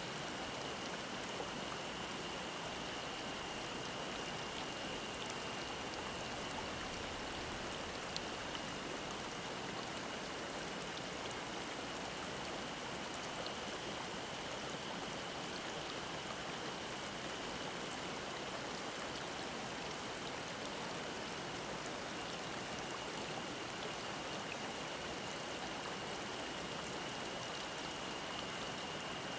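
Mountain stream babbling over rocks, a steady rush of water. Cicadas hold a thin, high, unbroken note above it.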